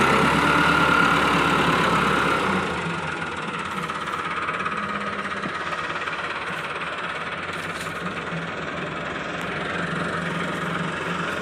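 Massey Ferguson tractor's diesel engine running, louder for the first two and a half seconds, then easing to a steady lower level.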